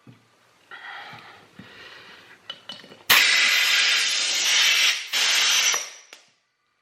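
Compressed air hissing as it is blown into a garden tractor tire: a softer stretch of hiss about a second in, a few light clicks, then two loud bursts, one of about two seconds and a shorter one just after.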